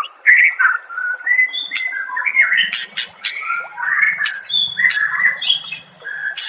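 White-rumped shama (murai batu) singing a rapid, varied song of short whistled phrases and glides mixed with sharp clicking notes.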